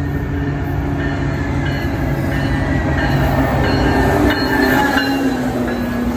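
Tri-Rail commuter train's diesel locomotive pulling into the station and passing close by, its engine running with a steady low drone over the rumble of the wheels. It grows louder as the locomotive draws level about four seconds in, with faint high squealing from the wheels and brakes around then.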